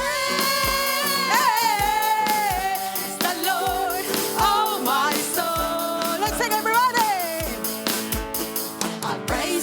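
Live worship music: a band with a steady kick-drum beat under sung melody lines with vibrato.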